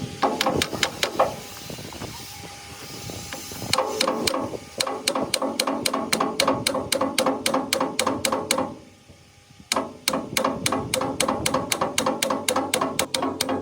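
Rapid, evenly spaced hammer blows on metal, about four or five a second, with a ringing tone; the blows stop for about a second near the middle, then carry on.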